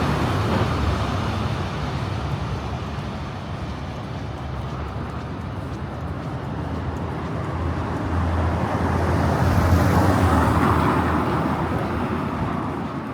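Road traffic passing: one vehicle fades away over the first few seconds, then another approaches, passes about ten seconds in, and fades off.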